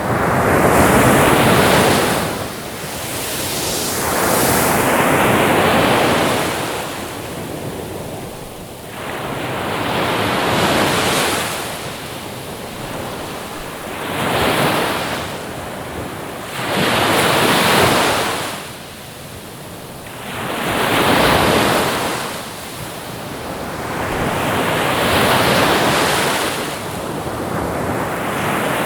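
Ocean surf: waves breaking and washing in, a swell of rushing water rising and falling every three to four seconds.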